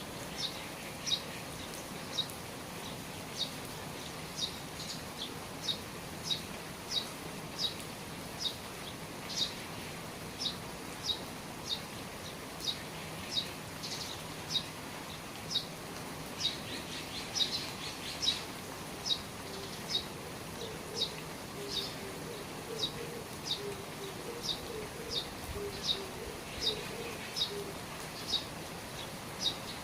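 A small bird repeating a short, high chirp about once every three-quarters of a second over the steady hiss of rain. A faint low call comes in during the second half.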